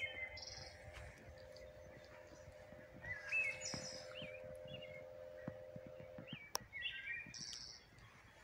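Birds chirping and whistling in short, sliding calls, over a steady low hum that stops about six seconds in; a single sharp click just after the hum ends.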